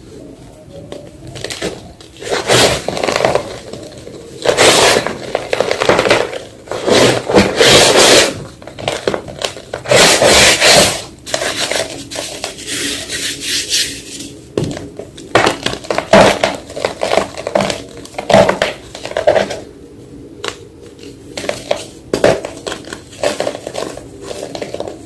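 Fresh white gym chalk being crunched and crushed, in irregular bursts of dry crackling crunches. The heaviest crunches come in the first half, followed by shorter, lighter crackles.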